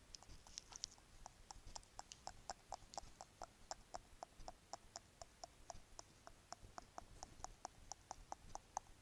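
Bracelets being tapped or clicked in a quick, even run of light clicks, about four a second, faint and close.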